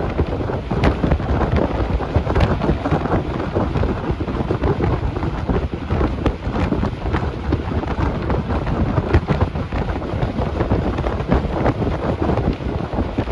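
Bus in motion, heard from inside: a steady loud rumble of engine and road noise with buffeting wind, and short sharp rattles or knocks now and then.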